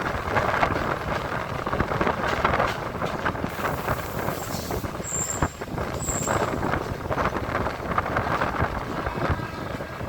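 Electric multiple-unit local train heard from on board while running: a steady rumble and clatter of wheels over the rails with rushing wind. Two brief high-pitched squeaks come about five and six seconds in.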